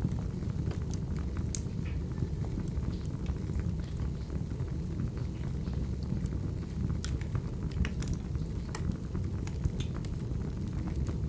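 Crackling wood fire: a steady low rumble of flames with sharp crackles and pops scattered irregularly through it.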